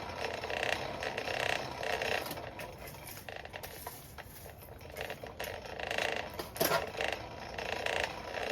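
Coal forge fire with its blower running while steel links are brought up to a welding heat, a steady rushing noise that pulses evenly. A single metal clank about two-thirds of the way in.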